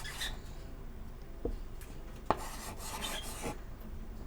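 Chalk scraping across a chalkboard as a name is written, in short scratchy strokes with a sharp tap about two and a half seconds in.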